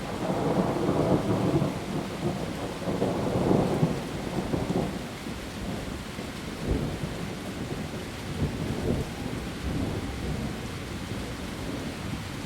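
Heavy rain falling steadily on leaves, with a long roll of thunder that swells over the first few seconds and then dies back into the rain.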